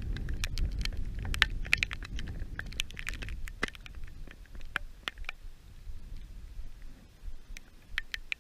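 Heavy rain: drops pattering in irregular, close, sharp ticks, thinning out somewhat in the second half, with a low rumble under the first few seconds.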